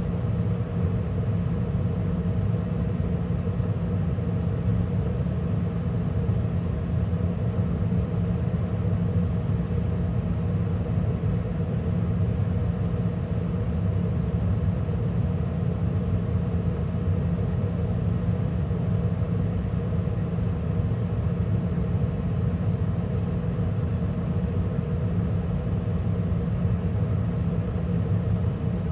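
A 2013 Carrier gas furnace running steadily mid-cycle, with burners lit, the draft inducer and the circulating blower all on. It makes a constant low rumble with a steady hum.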